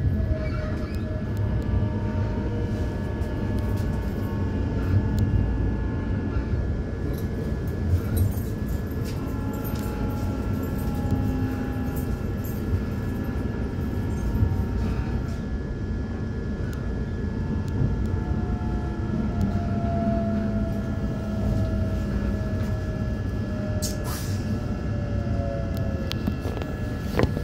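Ride noise inside a suburban train carriage: a steady rumble of wheels on the rails, with faint whining tones that slowly slide down in pitch and a few light clicks.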